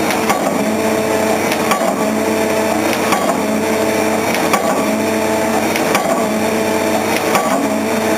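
Pile-driving hammer striking a concrete pile, one sharp blow about every second and a half, about six in all, over the steady drone of the rig's engine.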